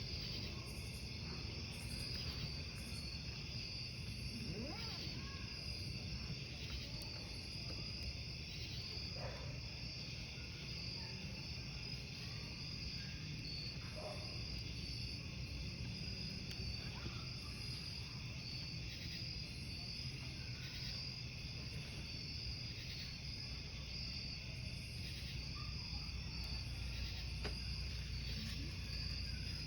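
Crickets chirping steadily and continuously, with a wood campfire crackling underneath and an occasional pop or snap.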